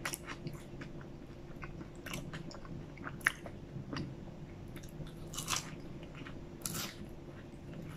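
Close-miked chewing of a McDonald's strawberry custard pie: scattered wet mouth clicks, a sharp click a little past three seconds, and two longer crunchy bites in the second half.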